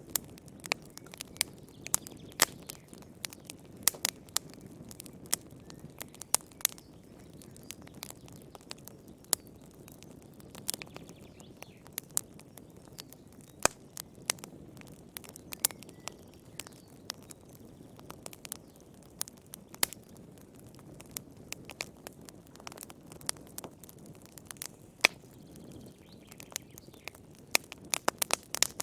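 Campfire burning, the wood crackling with irregular sharp pops and snaps over a soft low rush of flame, with a quick cluster of pops near the end.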